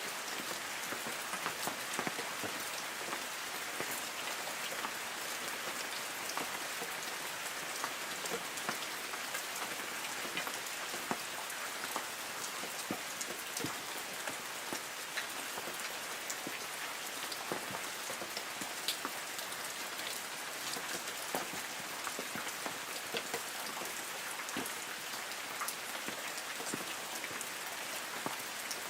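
Light rain falling on forest trees: a steady patter, with many separate drops ticking on leaves.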